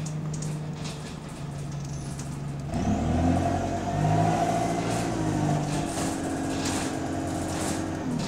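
Bus engine running steadily at a low idle, then about three seconds in it gets suddenly louder and its note rises and holds as the bus accelerates.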